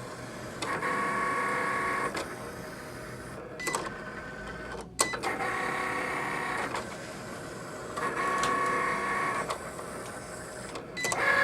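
Cricut cutting machine's motors whining steadily in runs of about one and a half to two seconds. Quieter pauses and a few sharp clicks fall between the runs as it works through a print-then-cut job on a magnet sheet.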